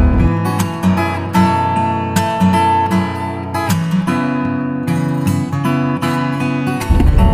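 Background music: acoustic guitar picked and strummed in a gentle melody. A low rumble drops out just after the start and comes back near the end.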